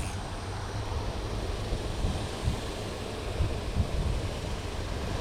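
Wind buffeting the microphone: a steady low rumble with small gusts.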